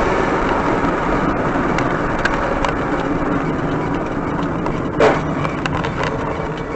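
Car on the road: steady road and engine noise, with a short loud bang about five seconds in and a few faint clicks.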